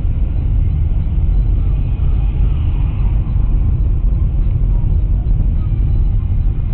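Car on the move heard from a dashcam inside: a loud, steady, low rumble of engine and road noise.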